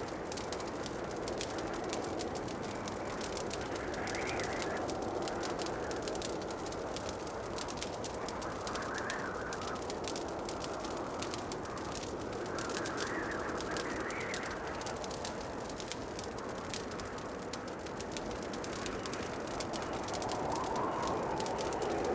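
Wood fire in a fireplace crackling with dense, continuous small pops, over a soft rushing background that swells up and down several times.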